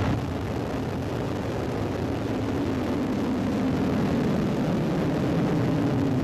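Ariane 4 rocket engines at liftoff: a steady, loud rushing noise, heaviest in the low end, with a low hum that grows slightly a couple of seconds in.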